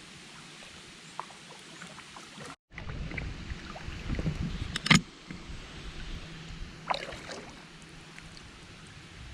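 Kayak paddling: water drips and splashes off the paddle, with a sharp knock about five seconds in and a lighter one a couple of seconds later. The sound cuts out for a moment before three seconds in.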